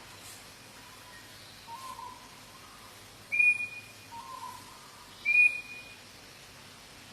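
A bird calling: two loud, clear whistled notes about two seconds apart, each about half a second long, with softer, lower hooting notes between them.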